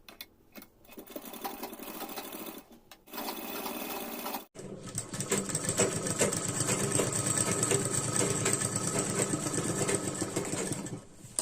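Electric sewing machine stitching a seam through fabric, starting in short runs and then sewing steadily for about six seconds before stopping near the end.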